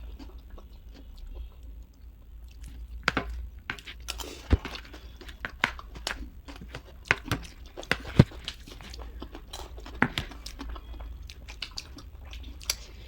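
Close-up chewing and crunching of chatpate, a spicy Nepali puffed-rice snack, with scattered crackles and several sharp clicks.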